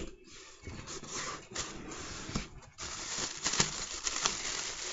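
Packaging being handled as a cardboard delivery box is unpacked: rustling and crinkling with scattered sharp clicks and knocks, louder from about three seconds in.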